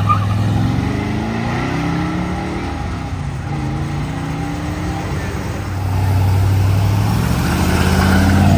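Car engine accelerating, its pitch climbing twice in the first half, then a louder, deeper steady engine rumble from about six seconds in.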